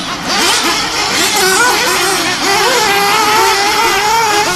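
Small engines of RC stadium trucks, nitro and gasoline, revving up and down continuously as the trucks race around a dirt track, several overlapping engine whines rising and falling in pitch.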